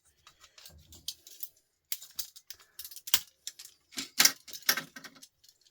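Irregular clicks and light knocks of small record-player parts and hand tools being handled during disassembly, loudest around three seconds in and again between four and five seconds in.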